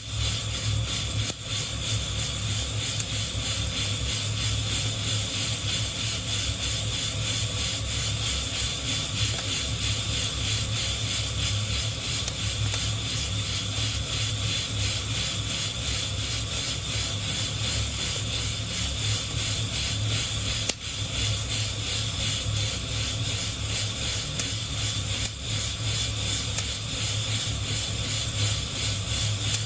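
Coffee beans rattling and rubbing against the wire mesh of a hand-held roasting net as it is shaken steadily, over a low steady rumble.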